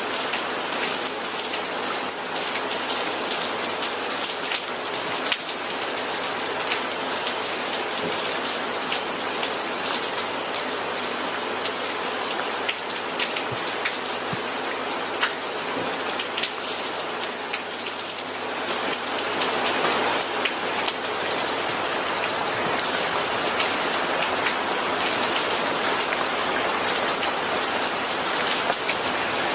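Steady rain falling on a hard surface, a dense hiss dotted with individual drops ticking, growing a little heavier about two-thirds of the way through.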